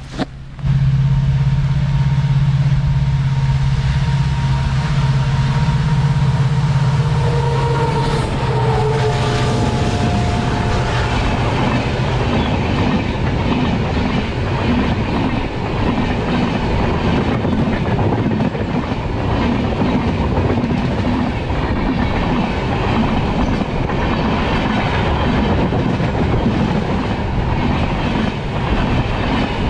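Diesel locomotive passing close by, its engine running with a strong low hum and higher tones that drop in pitch as it goes past. Then LHB passenger coaches roll by with a steady rhythmic clickety-clack of wheels over the rail joints.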